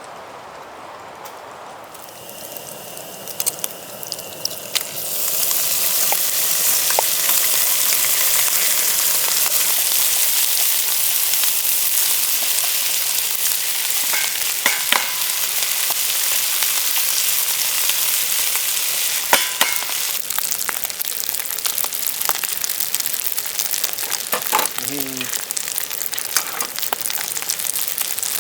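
Food sizzling in a hot frying pan: it starts about two seconds in, builds to a loud, steady sizzle by about five seconds in, with a few clicks and scrapes of a utensil against the pan along the way.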